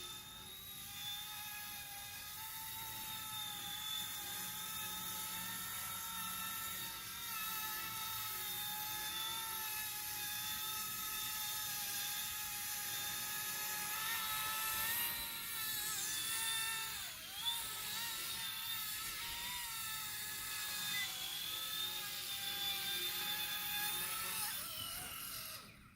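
Small battery-powered Vevor gyro-stabilised RC helicopter's electric motors and rotors whining steadily in flight, the pitch wavering slightly with a brief dip about two-thirds of the way through. The whine cuts off suddenly at the very end.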